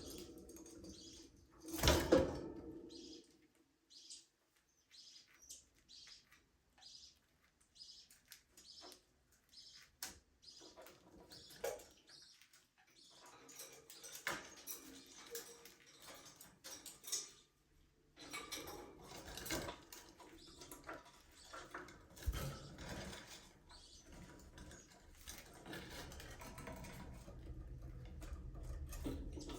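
Budgerigars chirping in short, scattered calls, with a louder burst about two seconds in; the calls grow busier in the second half.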